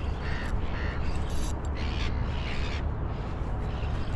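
A bird giving several short, harsh calls in the first second and a half, over a steady low rumble.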